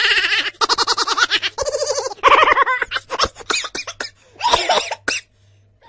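Baby laughing in a run of high-pitched, pulsing bursts, which break off shortly before the end.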